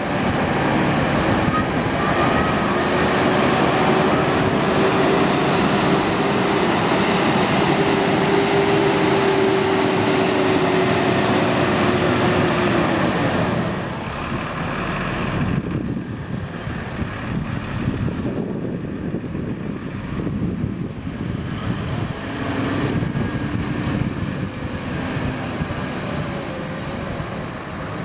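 Large bus's diesel engine running loud and close, its pitch rising a little, then dropping away about 14 seconds in. Quieter engine and traffic noise runs on after that.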